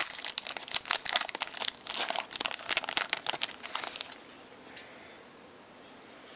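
Trading-card pack wrapper crinkling and tearing as it is handled and opened, dense crackling that stops about two-thirds of the way through.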